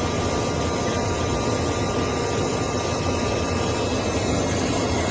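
Aircraft engine noise: a steady, continuous rush with a faint steady tone above it that fades out a little past halfway.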